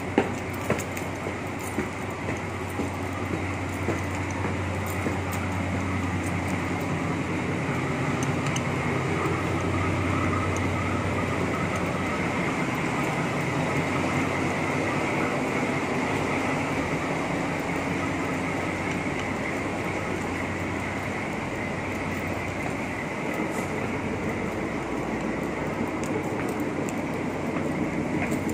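Steady rumble of a train on the line below, growing louder over the first ten seconds or so and then easing off. A few footsteps on concrete stairs sound at the start.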